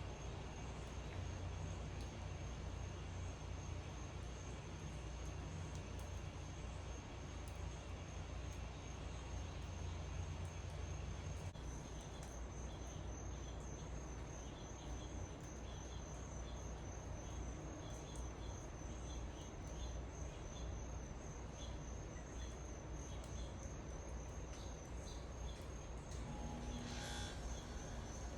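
Insects trilling steadily in a high, even pulse, over a low outdoor rumble that is stronger for the first ten seconds or so. A brief sharp chirp comes near the end.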